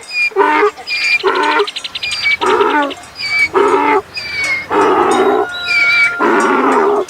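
A rapid series of loud animal calls, about ten, each under a second long, with the last few drawn out longer, and thin high chirps between them.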